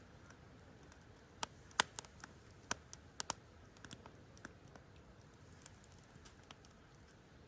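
Wood campfire crackling: irregular sharp pops and snaps, thickest in the first half, over a faint steady background.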